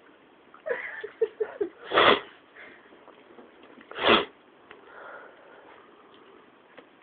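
A dog sniffing hard at a bin: a run of short, quick squeaks about a second in, then two loud, sharp sniffs about two seconds apart.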